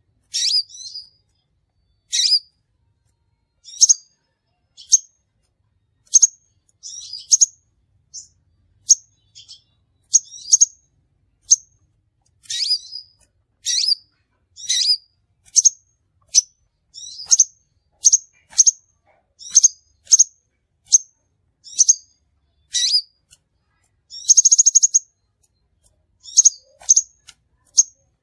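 Crimson sunbird giving a run of short, high, sharp chips and tseet calls, about one or two a second, with a brief buzzy trill near the end. It is a recorded lure call (suara pikat) used to attract sunbirds.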